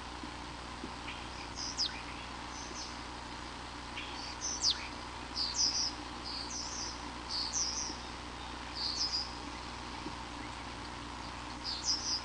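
Short, high-pitched bird chirps, about ten of them at irregular spacing, over a steady background hiss and hum.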